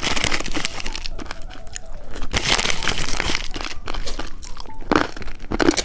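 Close-miked crunching and crackling of candy being eaten: a foot-shaped candy with popping candy, giving a dense run of sharp little crackles.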